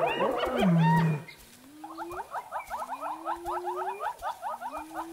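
Spotted hyenas calling. A loud burst of pitched calls in the first second gives way to a rapid squeaky chattering giggle, with long rising whoops beneath it.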